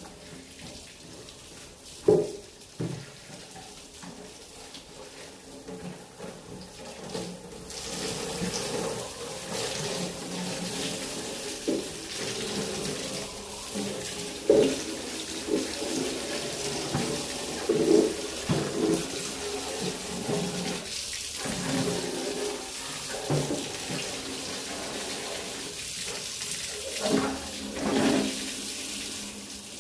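Water running and splashing, building to a steady hiss from about eight seconds in, with scattered knocks and clatter of parts being handled as they are washed.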